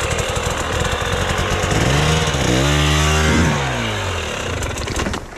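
Dirt bike engine running, revving up for about a second and then dropping back down, in the middle of an attempt to get the bike up a steep climb.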